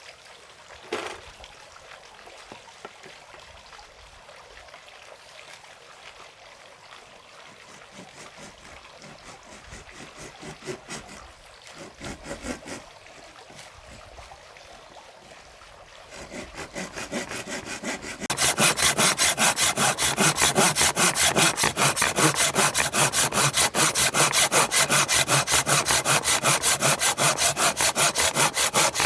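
Hand saw cutting through wood in quick, even back-and-forth strokes, faint at first and much louder for the last third. A single knock about a second in.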